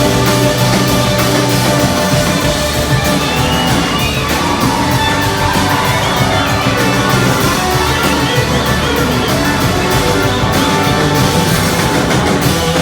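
Live rock band playing loudly behind an electric slide guitar solo, the guitar's lead line gliding and wavering in pitch over the band's steady drums and bass.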